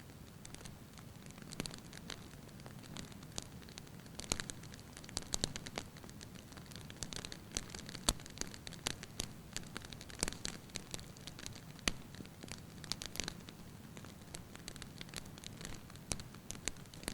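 Wood fire burning in a fireplace: irregular sharp crackles and pops from the logs, in loose clusters over a soft low rush of flame.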